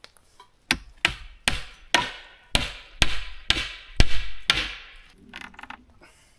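A hammer striking wood nine times in a steady rhythm, about two blows a second, each with a short ringing tail.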